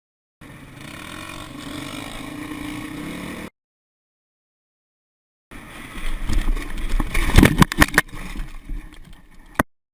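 Dirt bike engine running steadily with a slowly rising pitch, cut off abruptly; after a short gap a louder, rough passage of riding noise with a string of sharp knocks, ending in a sudden cut.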